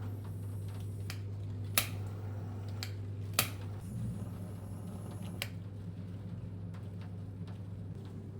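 Two sharp clicks about a second and a half apart, then a fainter one, over a steady low hum.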